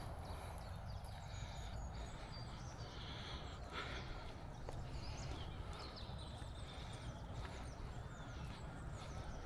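Several wild birds whistling and chirping, with short calls scattered throughout, over a steady low rumble.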